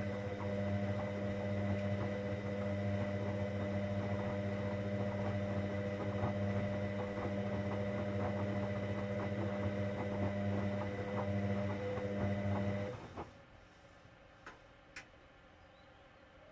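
Hoover Dynamic Next washing machine giving a steady electric hum with light ticking during its cotton 60 °C wash cycle. The hum cuts off suddenly a few seconds before the end, and two faint clicks follow.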